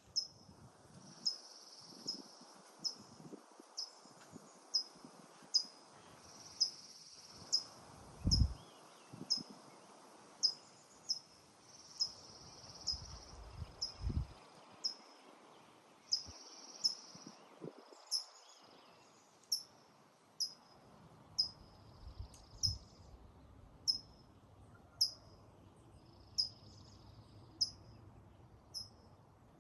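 A bird calling over and over, a short high chirp that slides downward, repeated about once a second, with a faint steady high insect drone behind it. A couple of low thumps stand out about a third of the way in and near the middle.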